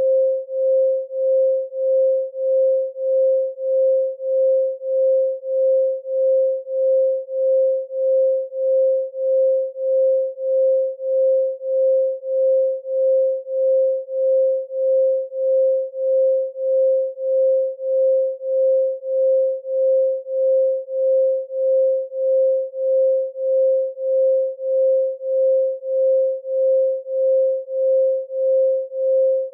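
Pure electronic 528 Hz sine tone, a single steady pitch that pulses in and out evenly, about three pulses every two seconds.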